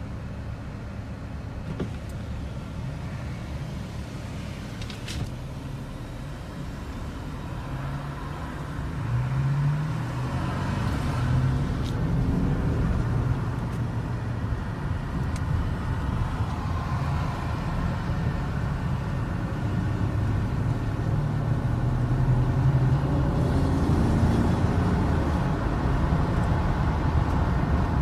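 Car engine and road noise as a dashcam picks it up, getting louder about nine seconds in as the engine pitch rises and shifts.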